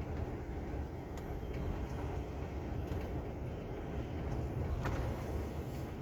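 Container truck running, a steady low engine and road rumble, with a few faint clicks.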